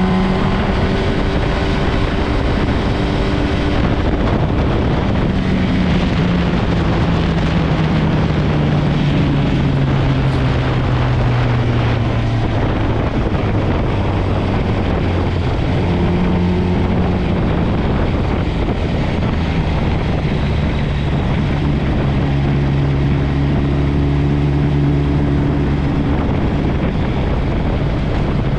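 Motorcycle engine running under way, with heavy wind rush over the microphone. The engine note falls steadily, picks up again about halfway through, then holds steady.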